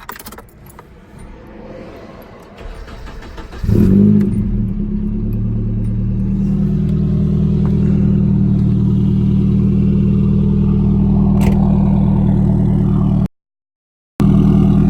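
Nissan 240SX engine with a muffler delete and homemade blast pipes being started: a short stretch of starter cranking, then it catches about four seconds in with a brief rev and settles into a steady, loud idle. The sound drops out for about a second near the end, then the idle carries on.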